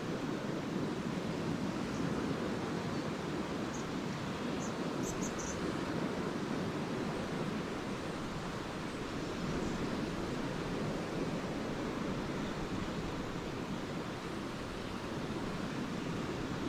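Lake waves washing steadily on the shore, a constant low rush of water. A few brief, faint high chirps from swallows come about four to five seconds in.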